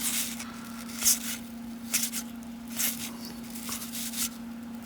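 Baseball cards being slid off one another by hand, one after the next, each giving a short papery swish about once a second.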